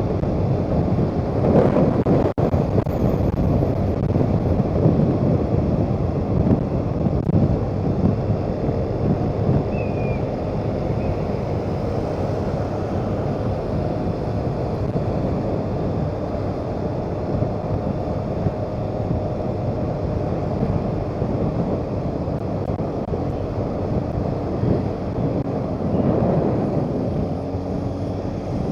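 Wind rushing over the microphone and road noise from a moving motorcycle, with a steady engine hum underneath.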